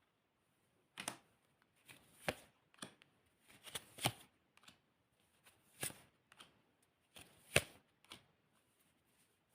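Tarot cards being shuffled and dealt: a scattered series of short slaps and rustles of card on card, about eight in all.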